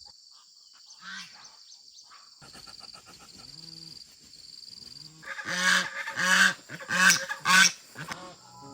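Geese honking: a few soft calls, then a run of four or five loud honks in quick succession in the second half. A steady high insect drone runs behind.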